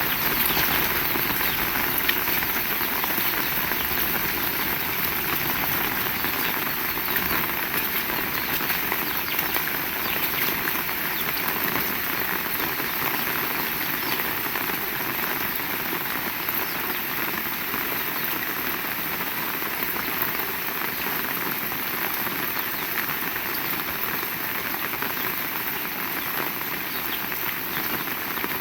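Heavy rain falling steadily, a dense wash of drops.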